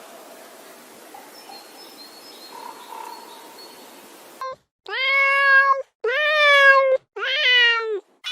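A cat meowing: a few seconds of faint hiss, then a short call about halfway through followed by three long meows of about a second each, each rising and then falling in pitch.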